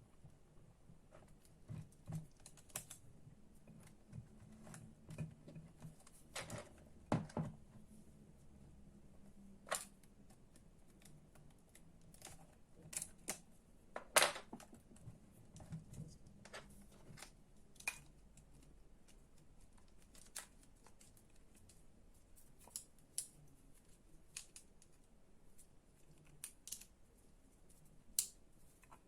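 Irregular clicks and knocks of small plastic and metal parts being handled and fitted together as an electric string trimmer's motor and housing are reassembled, with the loudest knock about fourteen seconds in.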